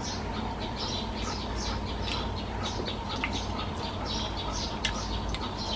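A bird calling over and over in short, high, falling chirps, about two to three a second, over a steady low hum.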